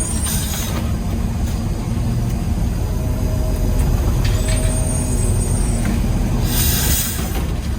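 Peterbilt 320 garbage truck's diesel engine running, heard from inside the cab, with short bursts of air hiss: a brief one just after the start and a longer, louder one about six and a half seconds in.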